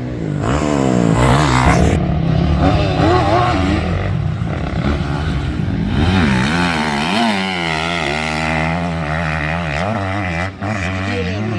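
Motocross motorcycle engines revving up and down over and over, their pitch rising and falling as the throttle opens and closes.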